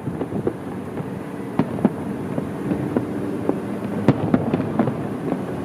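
Aerial fireworks shells bursting: a string of sharp bangs and pops, the loudest about four seconds in, over a steady low background rumble.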